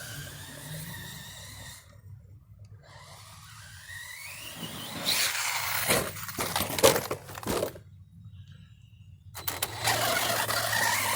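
RC stunt truck (Arrma Outcast) running hard, its electric motor whining and rising in pitch as it speeds up. About halfway through come several sharp knocks and clatter as the truck lands and tumbles, and the motor whine picks up again near the end.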